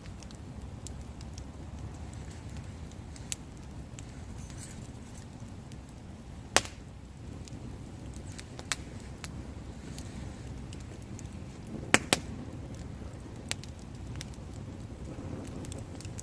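Wood campfire burning: a steady low rush of flames with sharp crackles and pops from the burning wood, a handful of loud snaps several seconds apart, two in quick succession near the end.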